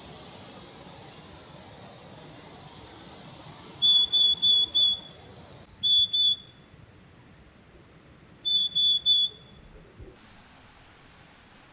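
Willow tit singing: three short phrases of clear whistled notes, each a few higher notes followed by a run of several slightly lower ones, starting about three seconds in and ending a couple of seconds before the end.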